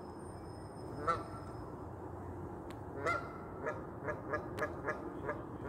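A bird calling with short, pitched calls: single calls about one and three seconds in, then a quick run of about three calls a second.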